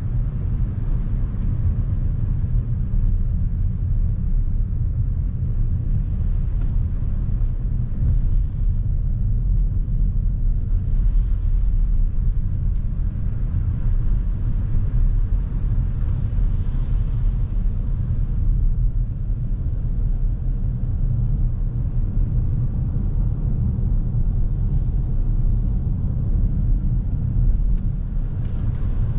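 Steady low road and tyre rumble of a 2023 Lexus NX350h hybrid SUV driving, heard from inside the cabin, swelling a little at times.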